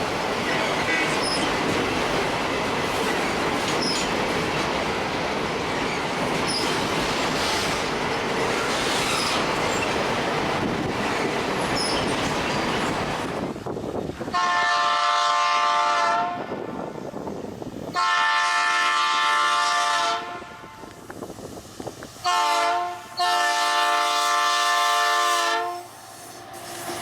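Freight train rolling on the rails with steady wheel noise and a few faint squeaks. About halfway through, the locomotive's multi-tone air horn sounds four blasts: long, long, short, long, the standard grade-crossing signal.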